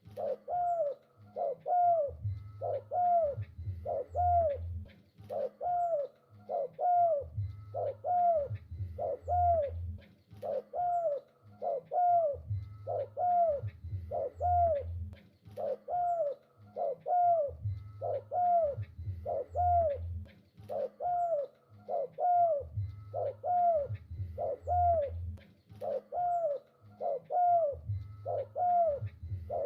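Spotted dove (tekukur) cooing over and over, short arched notes about twice a second in repeating phrases with deeper low parts every few seconds.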